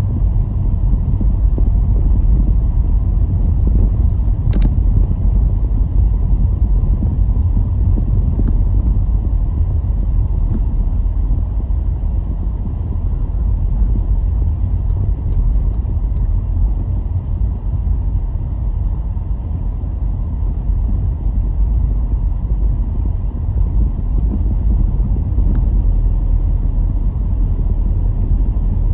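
Car driving at a steady pace: a steady low rumble of engine and tyres on the road. A faint click about four and a half seconds in.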